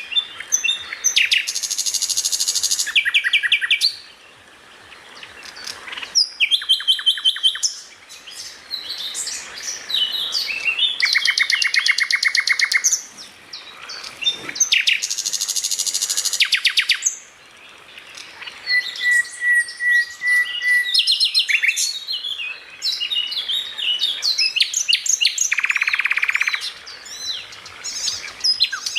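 Songbird singing a long, varied song of fast rattling trills and short high whistled notes, broken by a few brief pauses, with one steady whistle held for about two seconds midway.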